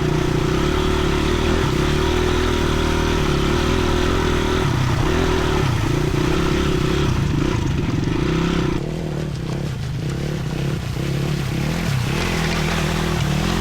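Dirt bike engine running under steady throttle. About nine seconds in it gets a little quieter and the engine note starts to rise and fall.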